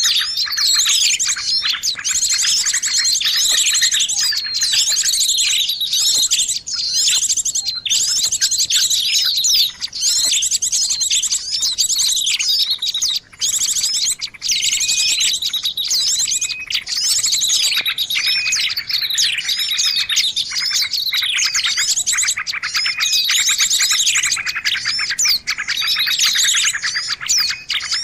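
Many small birds chirping and trilling over one another without a break, a dense, noisy chorus of high, quick calls. It is a bird-lure recording ("suara pikat") used to draw in birds.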